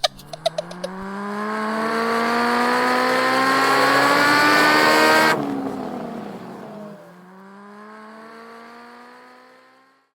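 Cartoon race car engine revving up, rising steadily in pitch and getting louder for about five seconds. It then cuts suddenly to a quieter, lower engine note that climbs again and fades out.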